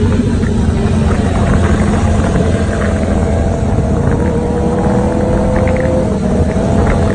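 Motorcycle engine running at fairly steady revs, its pitch drifting slightly, over a dense low rumble.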